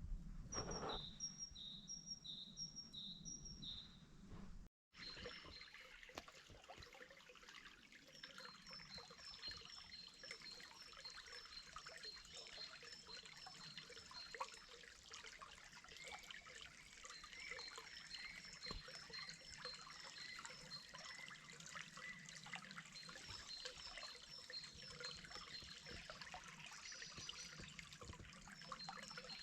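A songbird repeating a high two-note phrase in quick runs, about two to three a second, over a faint steady trickle of running water. The sound drops out completely for a moment about five seconds in.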